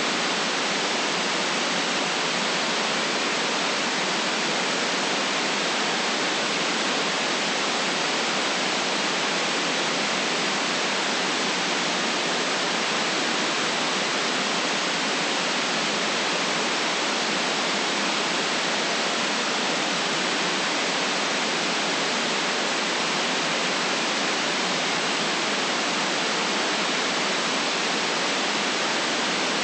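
Steady, unchanging white noise: an even hiss with nothing below the low mids and nothing above the high treble, and no events in it.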